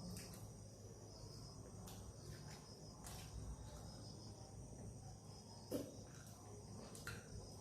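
Very quiet: a faint, steady, high-pitched ringing in the background, with a few soft clicks about three, six and seven seconds in.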